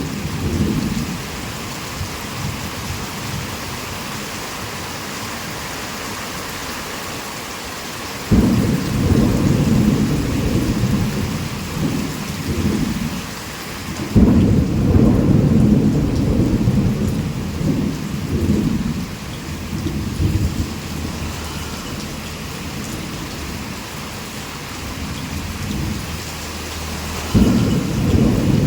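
Heavy rain falling steadily, with rolls of thunder. One rumble starts suddenly about eight seconds in, a louder one about fourteen seconds in rolls on for several seconds, and another breaks out near the end.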